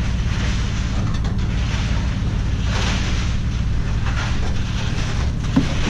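A vehicle engine running steadily, a low hum under a hiss of wind noise.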